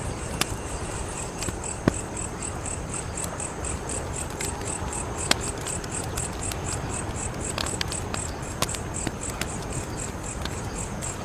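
Wood fire crackling, with scattered sharp pops, the loudest about two and five seconds in, over a steady low rush of flame. Crickets chirp in a regular rhythm throughout.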